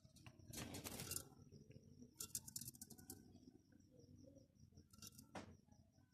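Java sparrows making three short bursts of light, quick clicking and rattling, about a second in, two to three seconds in and about five seconds in.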